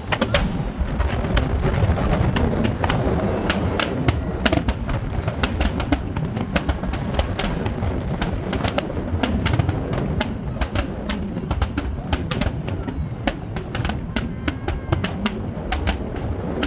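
Fireworks crackling and popping: many sharp, irregular cracks, several a second, over a steady low background noise.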